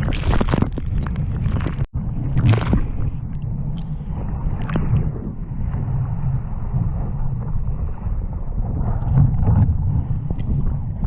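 Strong wind buffeting the microphone in a heavy rumble on a sailing dinghy in rough water, with bursts of spray and water splashing now and then. A brief dropout about two seconds in.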